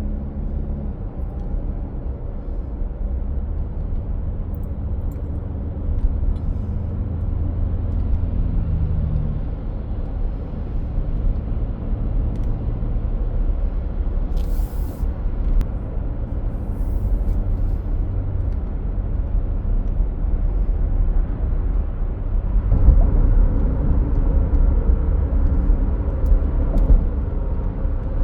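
Heavy truck running down the road: a steady low engine rumble, with a brief hiss about halfway and the engine growing louder for the last few seconds.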